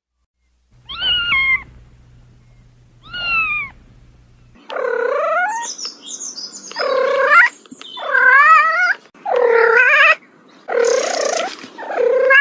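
Domestic cat meowing. Two short meows come first, then a run of about six longer, louder meows, roughly one a second.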